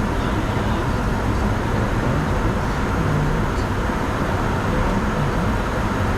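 Steady cockpit noise of a Bombardier Challenger 605 in climb: an even rush of airflow and turbofan engine noise.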